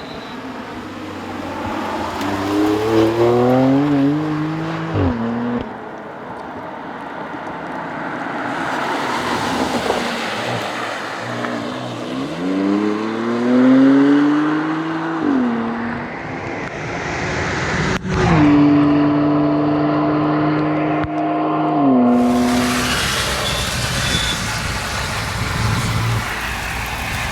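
BMW M2 Competition's twin-turbo inline-six accelerating hard, its pitch climbing twice and dropping sharply as the throttle comes off, then holding a steady higher note for a few seconds before dropping again. A sharp click about eighteen seconds in, over steady road noise.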